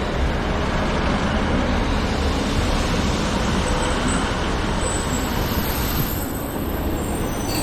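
Northern Class 156 and Class 150 diesel multiple unit running into the platform, a steady heavy rumble of engines and wheels on rail. A thin, high wheel or brake squeal starts about five seconds in.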